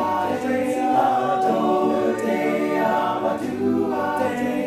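A cappella choir singing held, multi-part chords that change every second or so.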